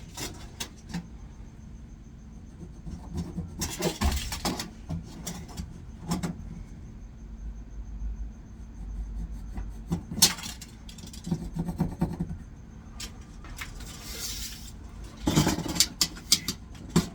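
Scattered knocks, clicks and scuffs of someone working in a room being renovated, moving about and handling tools, with a low rumble around the middle.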